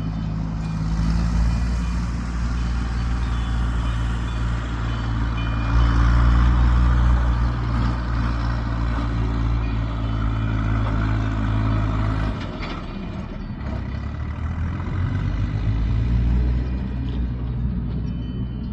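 A heavy motor vehicle's engine running steadily with a low hum. About twelve seconds in, the engine note drops away suddenly, then comes back more weakly.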